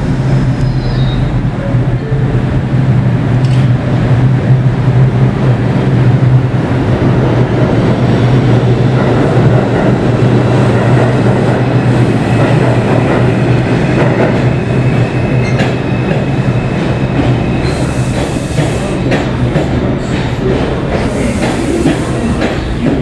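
R142 subway train running: a steady low hum under the wheels clattering over the rail joints, with a faint high wheel squeal partway through.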